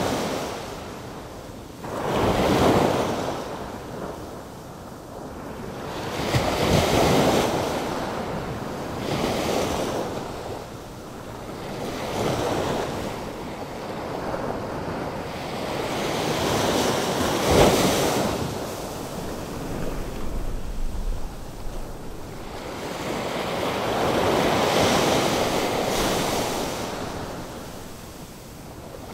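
Atlantic Ocean surf: waves breaking and washing in, swelling and fading every few seconds, with wind rumbling on the microphone.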